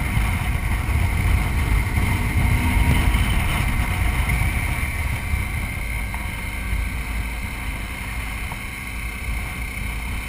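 BMW motorcycle engine running steadily at road speed, heard from the bike itself, with wind rushing past the onboard microphone; a steady low rumble that slowly gets a little quieter.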